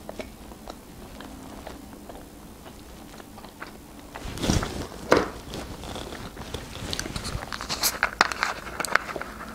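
Close mouth sounds of chewing pepperoni pizza, faint at first. From about four seconds in come louder knocks and crackling clicks as a small Coca-Cola bottle is handled and its cap twisted open.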